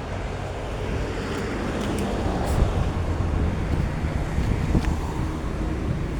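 Wind rumbling on the microphone over a steady background of road traffic, with a few faint clicks.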